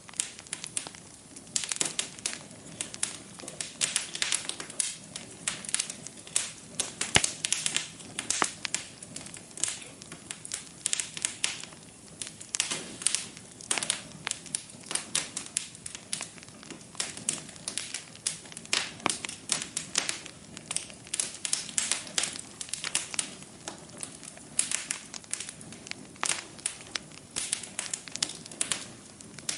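Wood fire burning in a fireplace, crackling and popping irregularly in dense clusters, with one sharper pop about seven seconds in.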